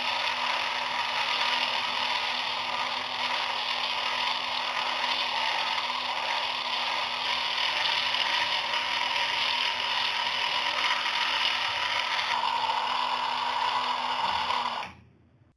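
Small electric motor driving the gears of a DIY miniature tractor-powered flour mill, running with a steady whir and gear rattle, with a constant hum underneath; it cuts off suddenly near the end.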